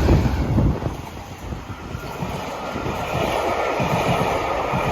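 Class 66 diesel-electric locomotive 66743, with its two-stroke V12 engine, passing close by at the head of a passenger train: a low rumble loudest in the first second, then a steady clatter of carriage wheels over the rail joints.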